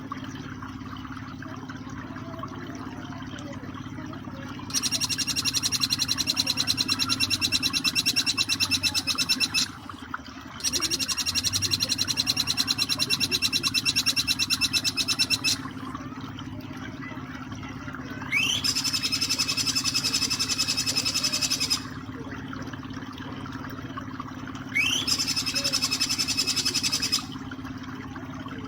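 Black-winged flycatcher-shrike (jingjing petulak) singing its rapid 'nembak' song: four bouts of fast, evenly repeated high notes, each a few seconds long, the last two opening with a quick rising sweep. Under the song runs a steady background of flowing water.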